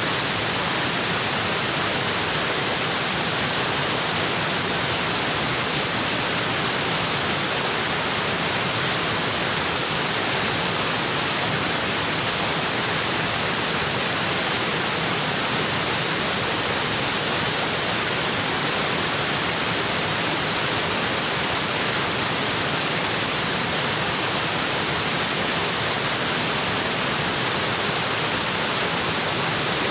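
Waterfall in a tropical forest: water pouring onto rocks, a steady, dense rush without pause.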